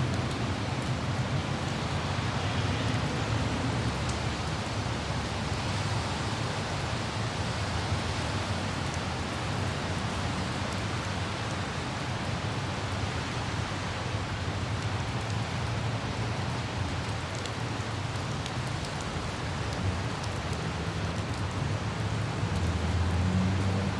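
Steady hiss of light rain with faint drip ticks, over a low rumble of road traffic that swells near the start and again near the end.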